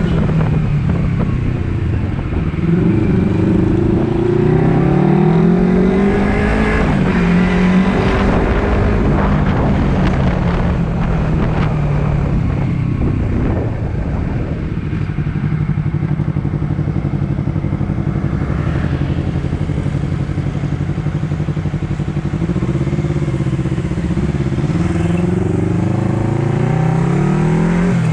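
Honda CBR250RR parallel-twin engine accelerating through the gears, its pitch climbing and dropping back at each upshift. In the middle it holds a steady pitch for several seconds, then climbs again near the end.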